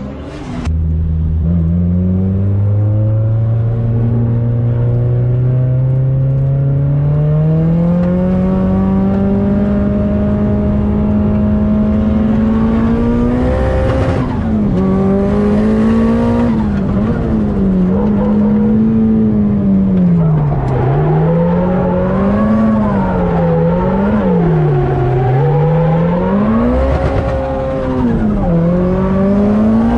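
Nissan Silvia S15 drift car's engine heard from inside the cabin. It pulls with its pitch climbing steadily for about twelve seconds, then drops, and the revs rise and fall in repeated swings every second or two as the throttle is worked through drifts.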